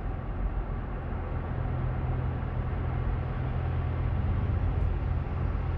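Steady road and engine noise heard from inside a moving car, with a low engine hum that grows stronger about a second and a half in.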